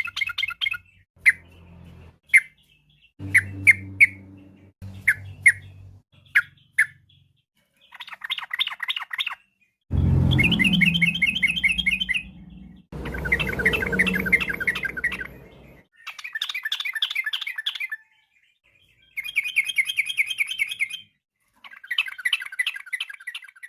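Yellow-vented bulbul (trucukan) singing: a few short single notes, then repeated phrases of rapid, bubbly chattering notes, each about two seconds long, separated by short pauses. A low rumble runs under two of the phrases near the middle.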